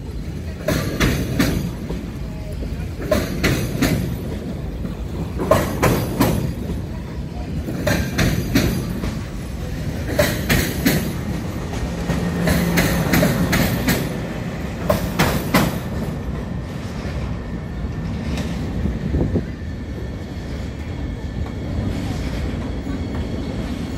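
Thalys high-speed trainset rolling slowly past, its wheels clacking over rail joints in a group of knocks about every two and a half seconds, with a low hum as the power car goes by. In the last seconds a steadier running sound with a faint whine comes in as an RRX electric regional train passes.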